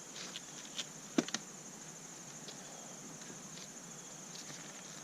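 Steady high-pitched trilling of singing insects, with a few sharp clicks about a second in.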